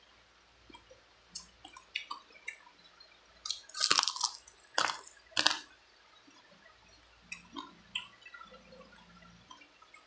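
Close-miked chewing of spicy chicken feet: small wet clicks and crackles from the mouth, with a few louder, sharper bursts between about three and a half and five and a half seconds in.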